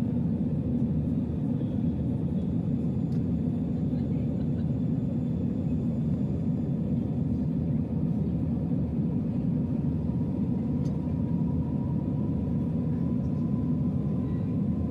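Airliner cabin noise heard from inside the cabin: a steady low rumble of engines and airflow, with a faint thin tone that grows a little clearer in the second half.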